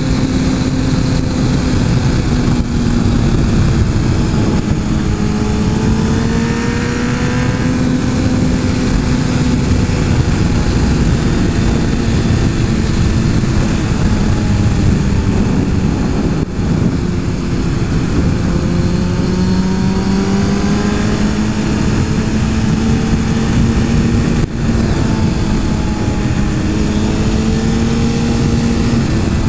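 Suzuki GSX-R 1000 engine pulling at a steady mid-range cruise under a heavy rush of wind noise. Its pitch sags slowly through the middle and then climbs again as the throttle is eased and reopened through the corners.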